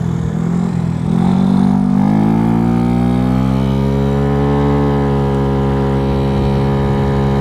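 Dongfang DF50SST scooter's 88cc big-bore single-cylinder engine under way. Its pitch rises as it speeds up from about a second in, then holds steady at high revs. With the light 6.5 g variator sliders, the rider finds these revs too high.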